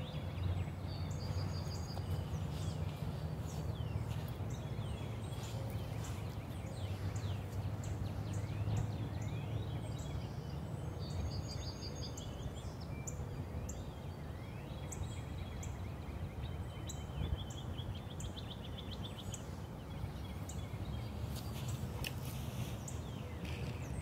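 Outdoor ambience: a steady low rumble, with small birds chirping and calling on and off.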